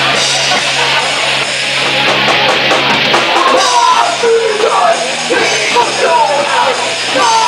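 Rock band playing loud and full. A lead vocalist comes in singing about halfway through.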